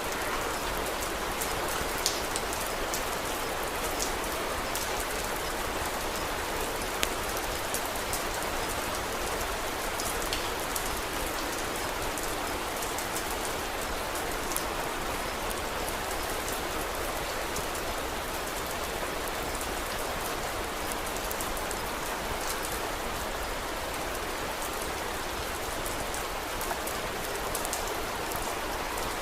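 Steady rain falling, with scattered sharp ticks and pops through it.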